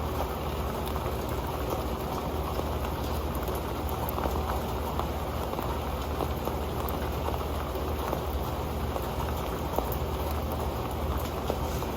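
Rain pattering steadily onto an old metal pan: a dense, even patter of many small drops with the odd louder drip.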